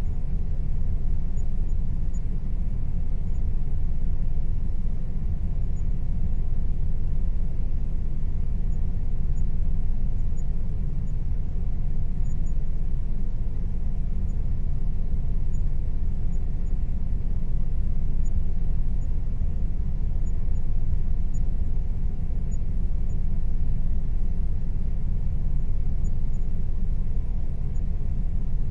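Air conditioner running steadily: a constant low rumble with a faint steady hum above it.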